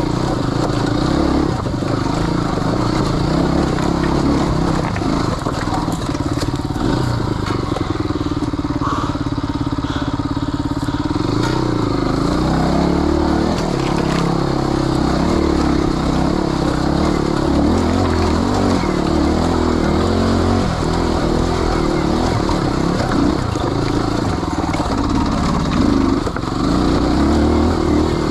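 Motorcycle engine running, its revs rising and falling continually with the throttle as the bike is ridden off-road.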